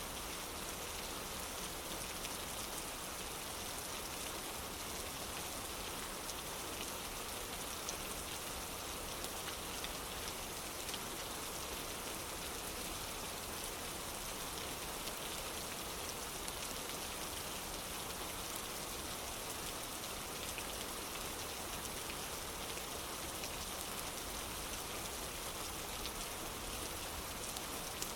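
Steady rain falling on a wooden porch: an even hiss with many small scattered drop ticks and no change in strength.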